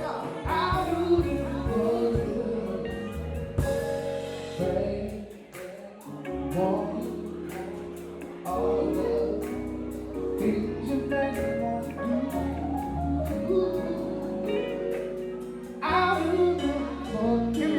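Live soul band playing, with bass, drums and cymbals under sustained chords, and a singing voice over them.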